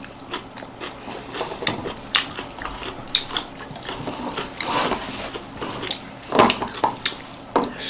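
People eating dhido and chicken curry: chewing and lip-smacking with many small irregular clicks and smacks, and a few louder bursts in the second half.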